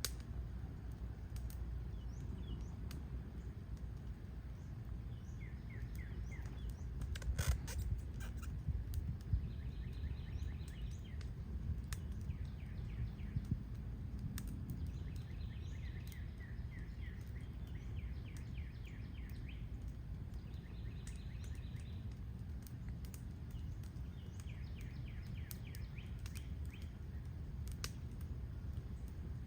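Birds singing in short repeated trilled phrases, again and again, over a steady low outdoor rumble, with a few scattered sharp clicks.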